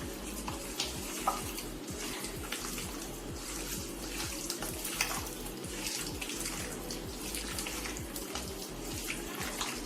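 Raw chicken pieces being mixed by hand in a wet egg and flour marinade: a run of small, irregular wet squelches and clicks.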